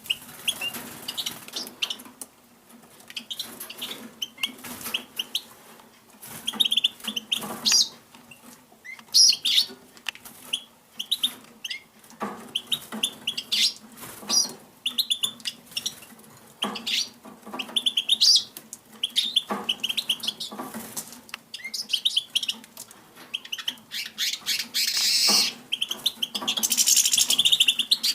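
A small songbird chirping in short, repeated calls, with wing flutters and small knocks in between. The chirping grows louder and denser near the end.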